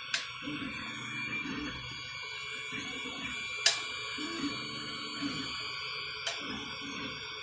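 3D printer's stepper motors whining in short held tones that change pitch as the print head moves, with a few sharp clicks, the loudest a little past the middle.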